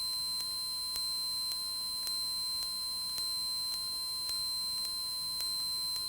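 A steady high-pitched tone in the Cessna 172's cockpit audio during slow flight, with faint regular ticks about three times a second.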